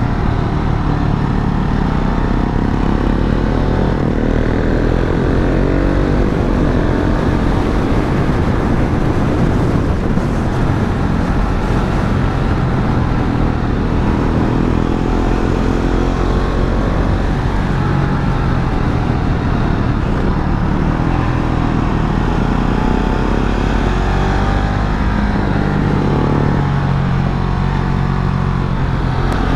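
KTM Duke 690 single-cylinder motorcycle engine under way, recorded onboard, its pitch rising and falling with the throttle.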